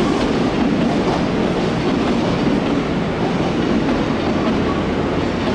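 Odakyu electric train running along the platform track, a steady rumble of wheels on rail.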